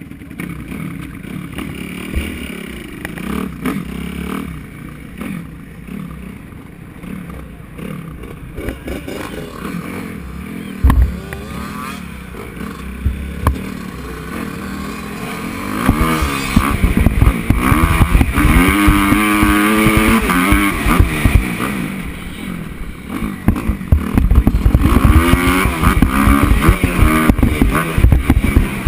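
Motocross bike engine running at low revs, then from about halfway through revving hard and accelerating, the pitch climbing and dropping repeatedly as it rides through the gears. A single sharp thump comes about eleven seconds in.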